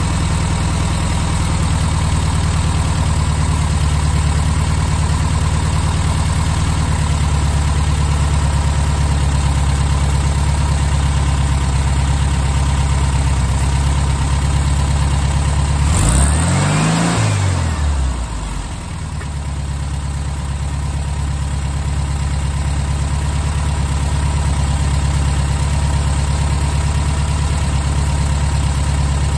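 Air-cooled VW Beetle flat-four engine idling steadily while its Solex 34 PICT carburetor is adjusted with a screwdriver to cure a rough idle. About sixteen seconds in it revs up briefly and falls back, dips low for a moment, then settles back to a steady idle.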